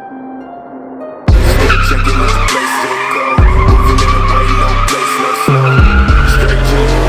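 Porsche 911 (964) tyres squealing in a drift, a long steady squeal that starts suddenly about a second in, with the car's engine under it, over hip-hop music with heavy bass that drops in at the same moment.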